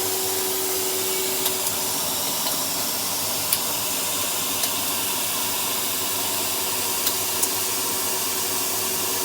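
Vacuum cleaner running steadily with an even rushing whoosh, with a few small clicks of debris or the nozzle along the way.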